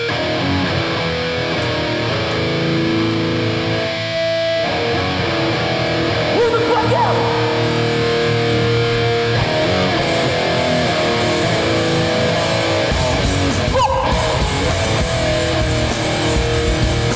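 Hardcore band playing live, loud distorted electric guitars ringing out sustained chords. A heavier low end comes in about thirteen seconds in.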